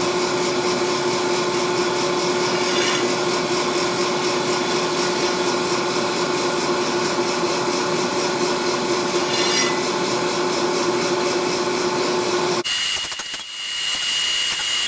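A power tool or shop machine running steadily, a constant motor hum over a broad whirring noise. About thirteen seconds in the hum cuts off suddenly, leaving a thinner sound with a high steady whine.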